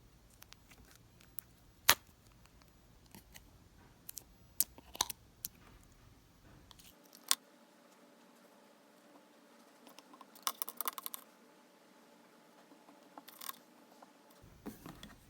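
Scattered sharp clicks and taps of small objects being handled, with a quick run of rapid clicks about ten seconds in.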